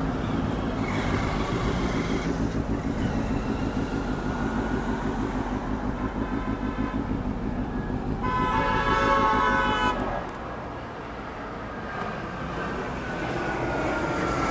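Road traffic with an engine running steadily, and a vehicle horn held for about two seconds a little past the middle.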